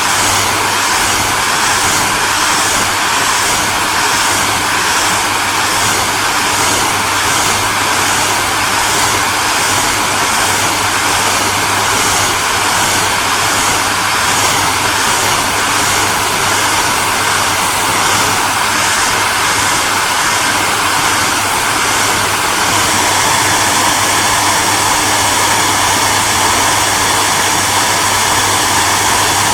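Hair dryer running steadily: a constant rushing hiss of air with a low hum and faint steady whine tones. About three quarters of the way through, a quick flutter in the high hiss stops and the sound becomes smoother.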